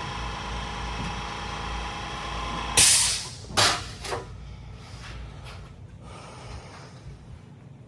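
Compressed-air vacuum coolant filler running with a steady hiss and whistle as it pulls a vacuum on the engine's cooling system. About three seconds in comes a loud blast of air, then two shorter bursts, and the sound drops much quieter after.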